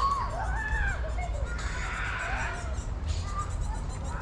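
Outdoor city-park ambience: a steady low rumble, with a few short calls that rise and fall in pitch.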